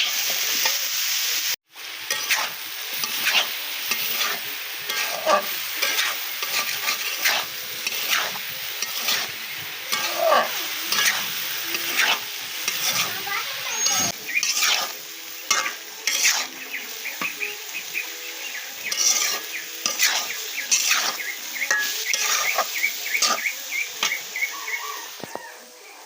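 Food sizzling in hot oil in a pan while a spatula stirs it, with frequent scrapes and clinks against the pan. The sound cuts out briefly about two seconds in, and the sizzle dies down near the end.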